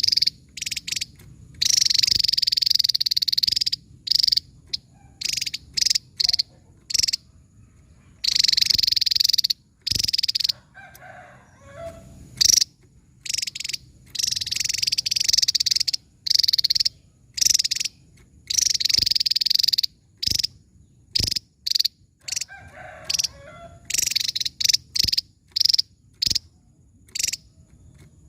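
Javan tesia singing: high-pitched bursts of rapid song, some lasting a second or two and others short stabs, repeating with brief pauses between them.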